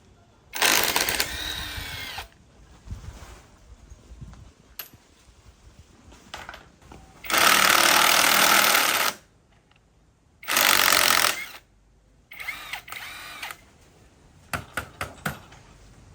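A handheld power tool run in four short bursts of one to two seconds each, followed by a few quick clicks near the end.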